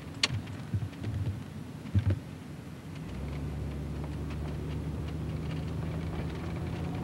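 Camcorder handling knocks and a sharp click in the first two seconds, then a steady low drone of the car's engine heard from inside the cabin, starting about three seconds in.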